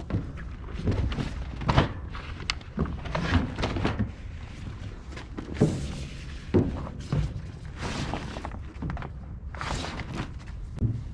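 A heavy steel tarp being handled and spread over a flatbed load: irregular thunks and knocks, with a couple of longer swishing rustles of the tarp.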